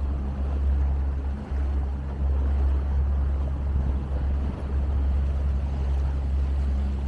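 Motorboat engine running steadily while underway: a constant low drone over a wash of water and wind noise.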